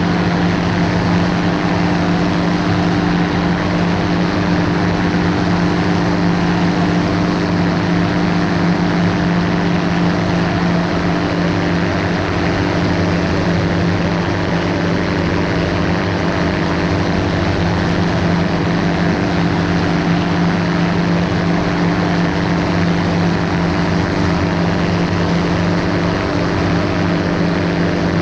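V200-A ultralight's engine and propeller in steady flight: an even drone with no change in pitch or loudness, over a wide rushing noise.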